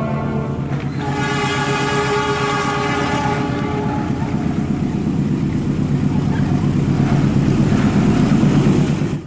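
Train horn sounding with several steady tones for a couple of seconds, then a train running by with a rumble and rapid rail clatter that grows louder before cutting off abruptly.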